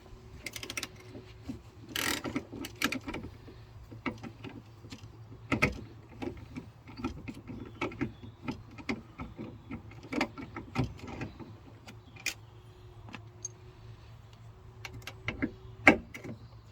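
Irregular metallic clicks and knocks of a Torx socket and ratchet being worked on the bolts of a tailgate latch, with parts clinking.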